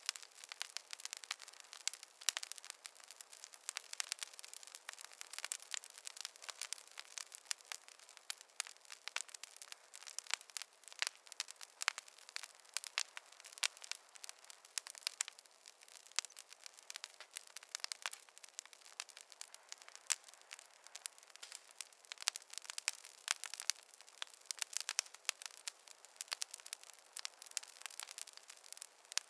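Wood fire crackling: a dense, irregular stream of sharp pops and snaps from burning logs, with no low rumble beneath.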